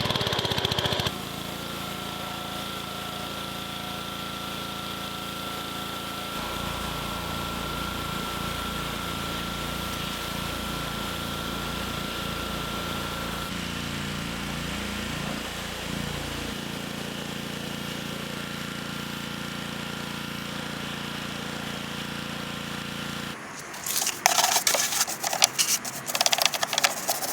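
Gas-engine pressure washer running steadily with a constant hum. About 23 seconds in, loud irregular hissing bursts of the spray begin.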